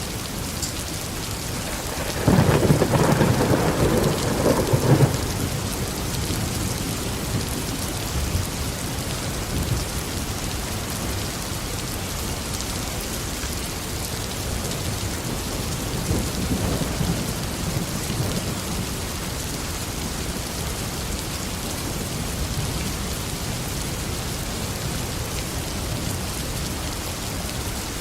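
Steady tropical downpour with thunder: a loud rumble about two seconds in lasting roughly three seconds, and a fainter rumble a little past the middle.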